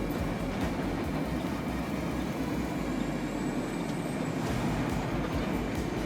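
Steady road and engine noise of a moving vehicle, with a faint constant high whine over it.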